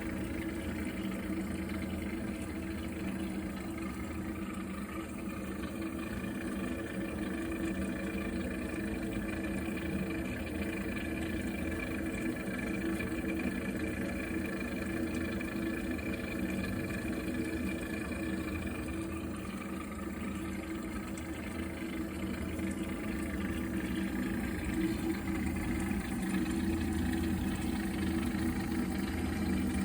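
Viessmann Vitodens 100-W gas combi boiler running while heating hot water, a steady hum with the strange noise the owner sees as a problem. A thin higher tone sounds over the hum for about ten seconds in the middle.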